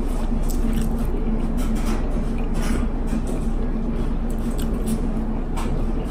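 A person chewing a mouthful of food with lips closed, with soft wet mouth clicks and smacks coming every half second or so, over a steady low hum.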